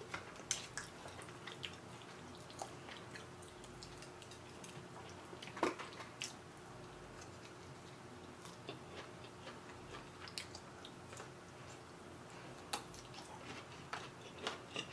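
Quiet close-up eating sounds: faint chewing and mouth noises with scattered small clicks as a grilled pork chop is bitten and chewed, and one louder click about six seconds in.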